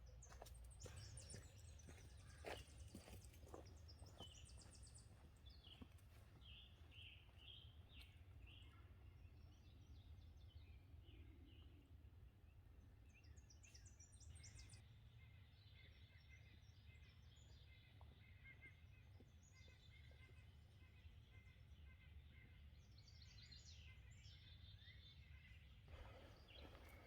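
Faint songbird chirps and trills from several birds, over a steady low rumble.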